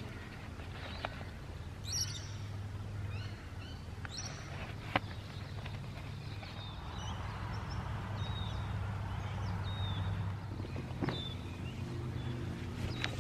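Birds chirping and calling in short, high, down-sweeping notes over a steady low background hum, with a few sharp clicks from the bamboo outrigger poles being handled.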